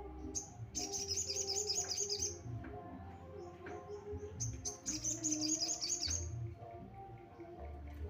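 Sogon bird song played as a lure recording: two bursts of fast, high, repeated chirping notes, each lasting about two seconds, with background music underneath.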